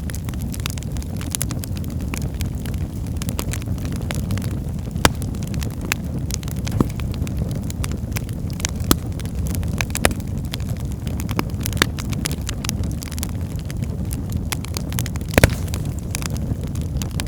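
Wood fire burning in a fireplace: a steady low whoosh of flames under frequent sharp crackles and pops. A few louder pops stand out, the loudest about fifteen seconds in.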